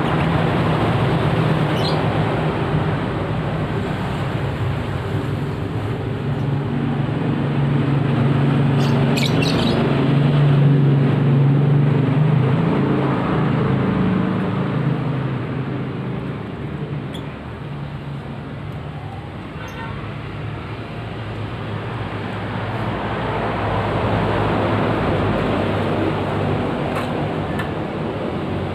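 Road traffic going by, swelling and fading as vehicles pass, with a few short bird chirps over it.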